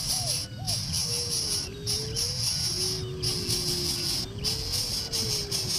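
Insects trilling: a steady, shrill chorus that breaks off briefly about once a second. Under it are a low rumble and some soft, slow gliding tones.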